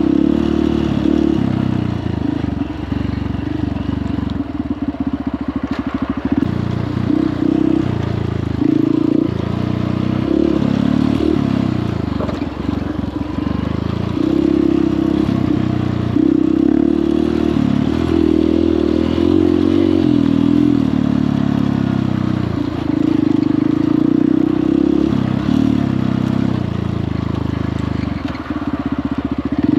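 Honda CRF150L dirt bike's single-cylinder four-stroke engine running at low to moderate revs, the pitch rising and falling every second or two as the throttle is opened and closed.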